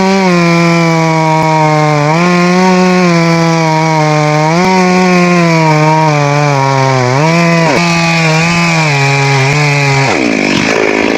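Two-stroke chainsaw cutting wood at high revs. Its pitch dips and recovers every two to three seconds as the chain loads up in the cut, then falls steeply about ten seconds in as the engine comes off the throttle.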